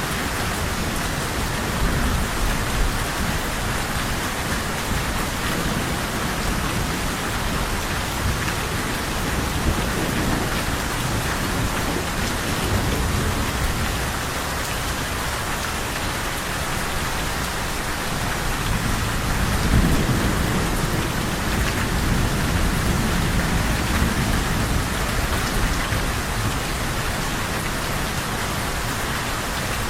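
Steady rain falling with an even hiss, under low rolling thunder that swells louder about two-thirds of the way through.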